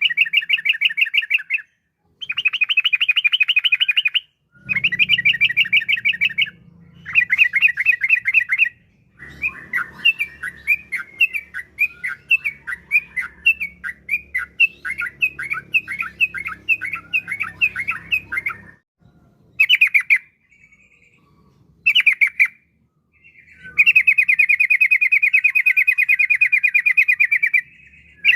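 Yellow-vented bulbul (trucukan) singing in bursts of rapid, bubbling trills with short pauses between them. A longer, more varied chattering phrase runs through the middle, and a long, even trill comes near the end.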